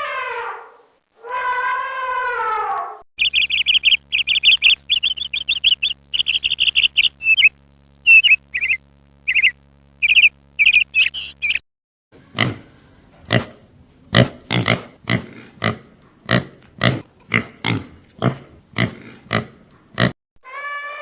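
A run of different animal calls: two pitched calls that fall in pitch, then fast high-pitched chirping over a steady low hum, then a regular series of short grunt-like pulses, about one and a half a second.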